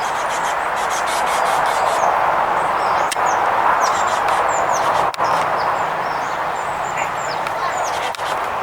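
Small songbirds chirping with short, high notes that slide downward, and a quick rattling series in the first two seconds, over a steady rushing background noise.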